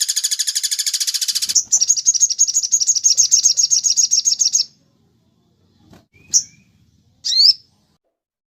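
Songbird calls from a bird-training track: a fast, high trill of rapid pulses that changes character about a second and a half in and stops abruptly at about four and a half seconds, then two short, sharp chirps about a second apart.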